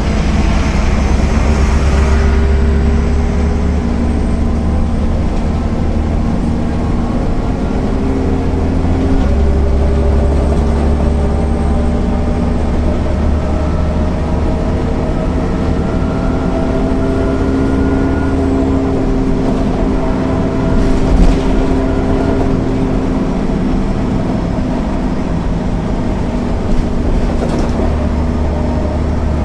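Diesel engine of a 2000 MAN NL 262 low-floor city bus running under way, a steady drone whose pitch drifts slowly up and down. Two short knocks come in the second half.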